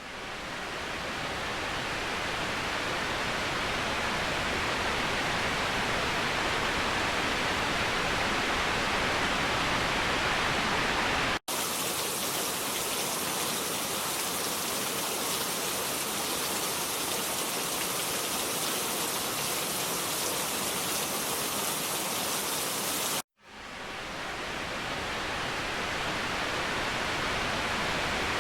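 Waterfall, a steady rush of falling water. About 11 seconds in it cuts abruptly to a brighter, hissier take with less low rumble, and about 23 seconds in it drops out for a moment and fades back in.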